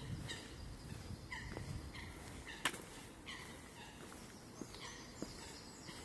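Birds calling repeatedly in short chirps that each fall in pitch, spaced irregularly, with a single sharp click about two and a half seconds in.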